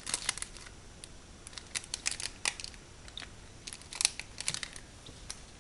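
Small clicks and rustles of craft materials being handled on a table, scattered irregularly throughout with a cluster about two seconds in and another around four seconds in.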